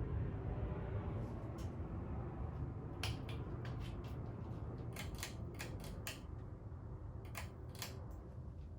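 Hampton Bay Carousel ceiling fan running, a steady low hum and air rush that slowly gets quieter, with a run of light clicks and ticks from about three seconds in.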